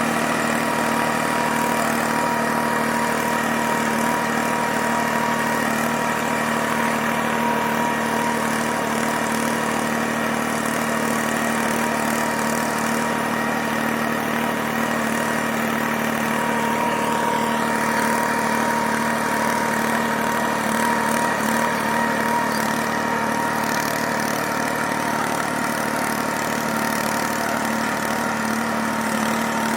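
Abhiman 4x4 tractor's diesel engine running steadily while pulling a seven-tine cultivator.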